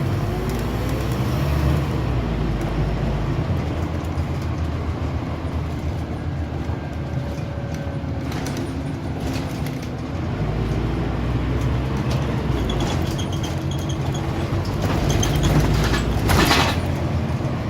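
Interior of a Scania OmniCity (N230UB) single-deck bus on the move: the diesel engine runs throughout and its note rises twice as the bus gathers speed, with body rattles and knocks and one louder rattle near the end.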